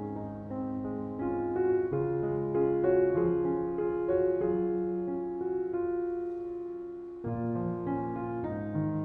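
Gentle background piano music: slow, sustained notes and chords, with a new chord struck about seven seconds in.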